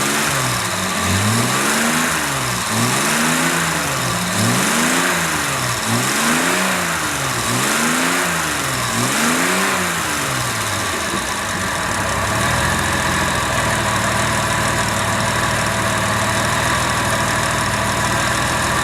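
1969 Jaguar E-type's 4.2-litre straight-six engine blipped over and over, about once a second, its revs rising and falling each time. About ten seconds in it settles into a steady idle.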